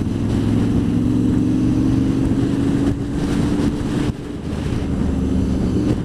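Honda VFR800 VTEC's V4 engine running steadily as the motorcycle is ridden, with wind rushing past. The engine note dips briefly about four seconds in, then picks up again.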